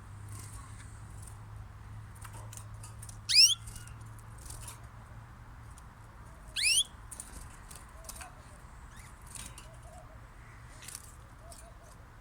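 Cage birds calling: twice a bird gives a loud, shrill call that sweeps quickly upward in pitch, a few seconds apart, with faint scattered chirps from other birds between the calls.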